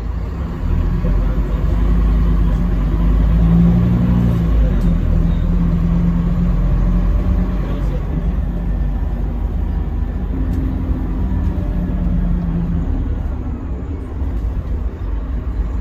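Scania K310UB city bus under way, its diesel engine and drivetrain making a deep, steady rumble with engine tones shifting in pitch as it drives.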